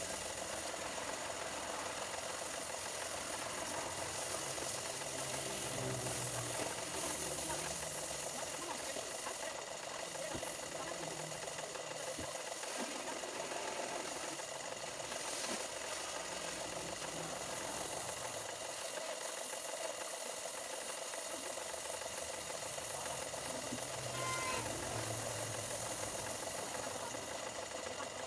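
A machine running steadily, a constant hum with hiss.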